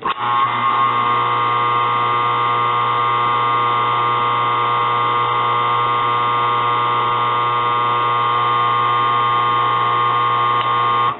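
Hotwired replacement washing machine motor running on the bench with a loud, steady electrical buzz, switched on at the start and cut off abruptly about eleven seconds in. The buzz puzzles the tester, though it does not sound like the old failed motor.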